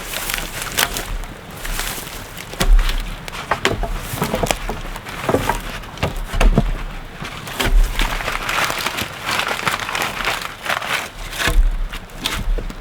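Irregular wooden knocks and snapping crackles, a few a second, as logs and branches are handled and set into a log wall, with low rumbling bursts now and then.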